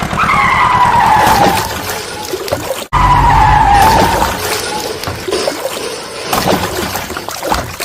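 Heavy machinery running with a low rumble and a high whine that falls in pitch. The whine comes twice, with an abrupt cut between the two.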